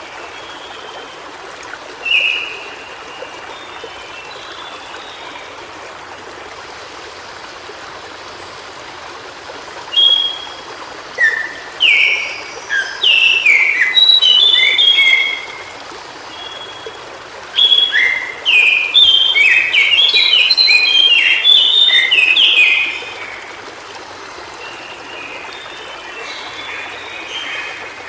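White-browed shortwing singing: a single short note, then two runs of rapid, jumbled high notes, each several seconds long, over the steady rush of a stream.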